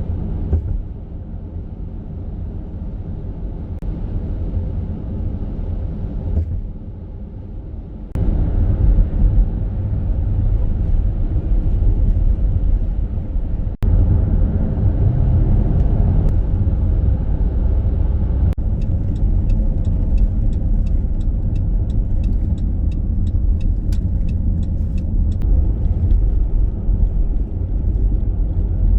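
Dodge Grand Caravan minivan driving along: a steady low rumble of road and engine noise, quieter for a moment about a quarter of the way in. In the second half, a run of fast, regular light ticks sits over the rumble for several seconds.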